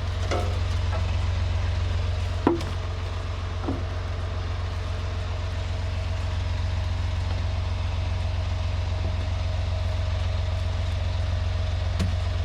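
Semi-truck diesel engine idling steadily, with one sharp click about two and a half seconds in.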